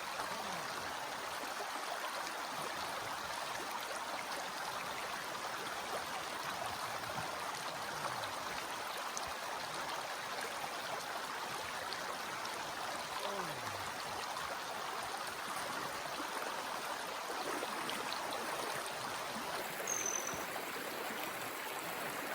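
A swift mountain river rushing steadily.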